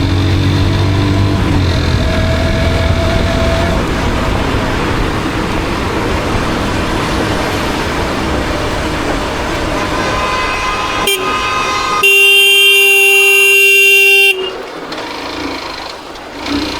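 Motorcycle riding in traffic with steady engine and road noise, then a single long vehicle horn blast about twelve seconds in, lasting about two seconds and far louder than everything else.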